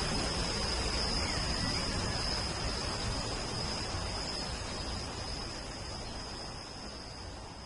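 Steady rain hiss with a continuous high-pitched insect trill over it, fading slowly over the last few seconds.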